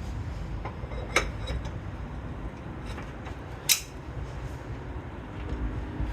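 Two sharp metal clinks, about a second in and near four seconds in, over a low steady rumble, as an engine is worked into line with a transmission.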